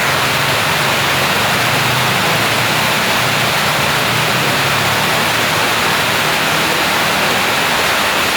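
Heavy rain falling as a steady, even hiss, with a faint low hum underneath.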